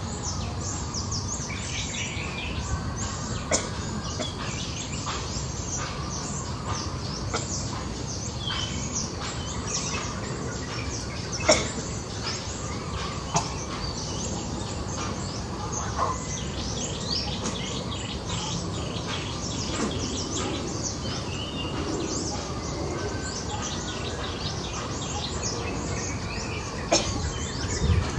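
Small birds chirping over a steady low rumble, with a few sharp clicks or snaps scattered through, the loudest about halfway in.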